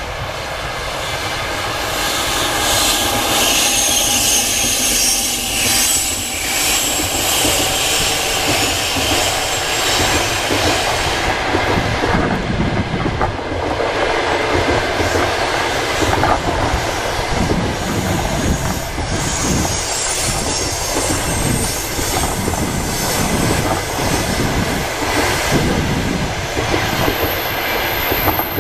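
Passenger train hauled by an EP2K electric locomotive passing close by at speed. Wheels run loudly on the rails, building over the first few seconds, with a repeated clickety-clack as the coaches' wheels cross the rail joints.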